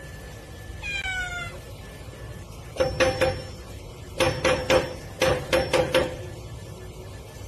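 Domestic cat meowing: one falling meow about a second in, then three quick runs of short, sharp, loud meows.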